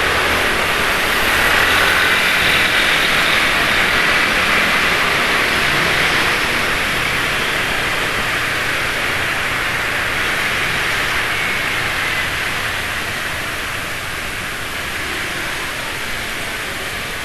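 Motorcycle traffic on a road: engines of motorcycles running under a steady rushing noise, with a low engine hum fading out in the first couple of seconds and the whole sound easing off slightly near the end.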